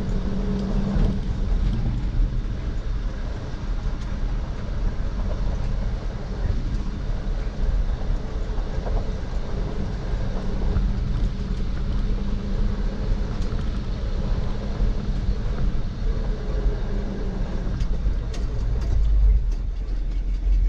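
1974 Ford F-250's 360 FE V8 running steadily under way in second gear of its four-speed manual, a low even engine rumble, with a few faint clicks near the end.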